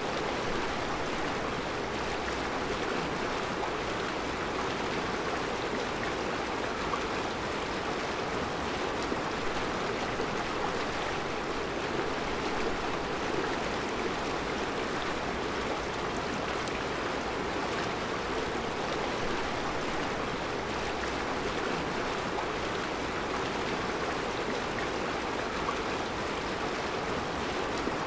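Mountain river flowing over round rocks in a rocky riverbed: a steady rushing of water.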